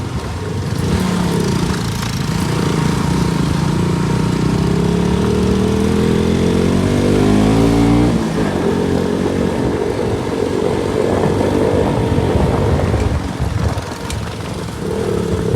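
KTM RC 200 single-cylinder motorcycle engine under way. Its pitch rises steadily for about seven seconds, then drops suddenly about eight seconds in, and it runs on unevenly at lower revs.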